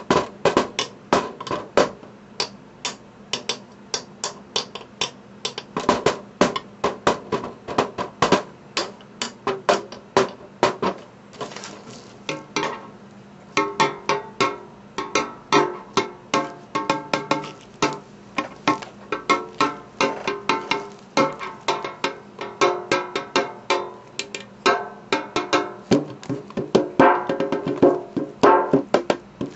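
A springform pan, still in its wrapping, played as a percussion instrument: quick, uneven runs of sharp taps, several a second. About halfway through, the strikes take on a ringing, pitched metal tone.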